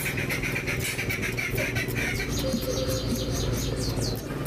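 Close-miked chewing and wet mouth sounds of eating rice and curry by hand, over a steady low hum. Birds chirp in quick falling notes in the second half.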